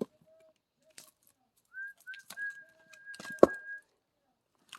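Axe splitting firewood: one sharp strike into a log about three and a half seconds in, with lighter knocks of wood earlier. A steady high whistle-like tone is held for about two seconds before the strike, and short bird-like calls sound in the background.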